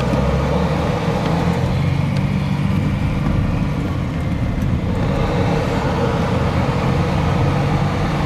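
A 1978 Mercedes-Benz 280SE being driven, its 2.8-litre M110 DOHC inline-six running under way with steady engine and road noise. The air-conditioning compressor is switched on and adds load to the engine.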